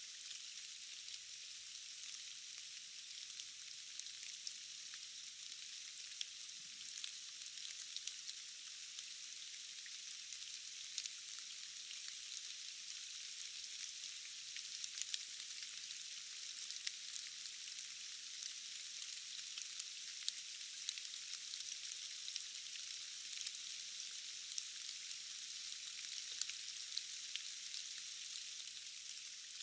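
Steady rain falling in a forest: an even, high, thin hiss with no low rumble, sprinkled with many small sharp ticks of individual drops.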